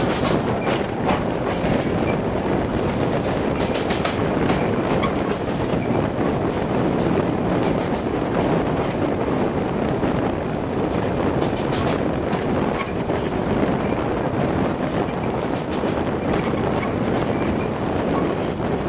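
Narrow-gauge train hauled by a Px48 steam locomotive running along the track: a steady rumble of wheels on rails, with sharp clicks every few seconds as the wheels pass over rail joints.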